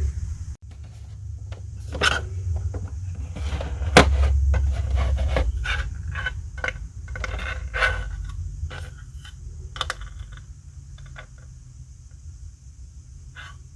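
Hands handling the plastic parts and packaging of a sixth-scale collectible action figure: scattered clicks, rustles and scrapes, the sharpest click about four seconds in, over a low rumble that fades after about six seconds.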